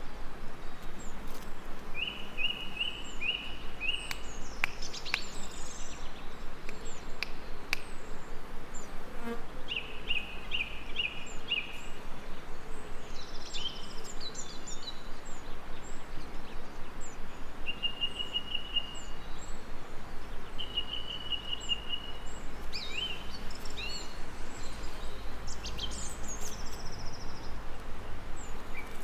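Songbirds singing: a short phrase of quick repeated notes sung again and again, with scattered higher chirps from other birds, over a steady hiss.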